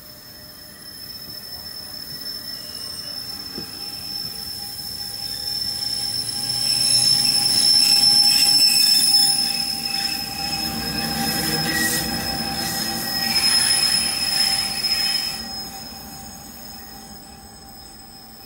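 NJ Transit train hauled by an ALP-46 electric locomotive passing close by, its wheels giving a steady high-pitched squeal. The rumble builds to its loudest in the middle and fades away after about fifteen seconds.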